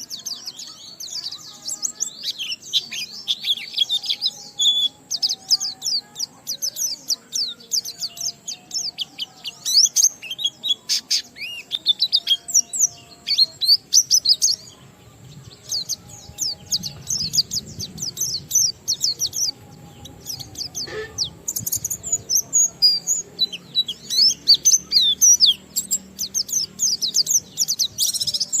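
A white-eye (pleci) singing in the fast, unbroken 'ngalas' style: rapid high twittering notes in dense runs, mixed with mimicked phrases, pausing briefly about halfway through and again later. Faint lower whistled phrases sound behind it.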